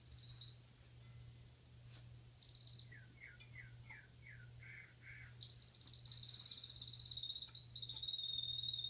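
A bird singing: long, high, finely trilled phrases, broken in the middle by a run of about seven short downward-sweeping notes.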